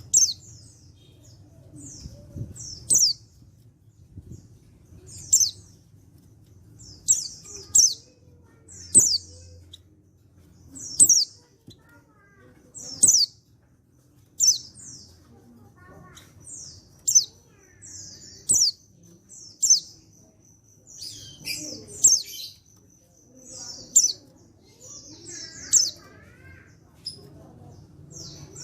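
Male pleci (white-eye) giving short, high-pitched, sharply falling call notes, repeated every one to two seconds and often in quick pairs.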